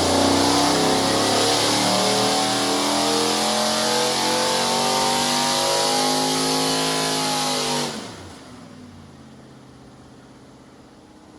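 6.0-litre LS V8 with a VCM cam making a full-load dyno pull, its note loud and its pitch climbing slowly. About eight seconds in the throttle is closed and the revs fall sharply, leaving a much quieter low engine sound.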